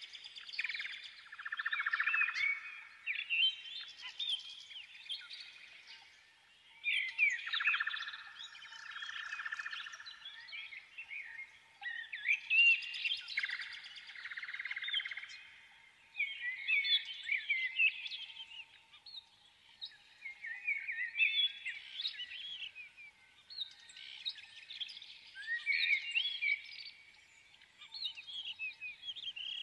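Birdsong: birds chirping and singing in repeated short phrases, a few seconds each, with brief pauses between them.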